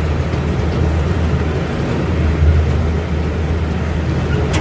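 Miniature park train running at a slow, steady pace, a continuous low rumble of the train and its wheels on the track, heard from aboard.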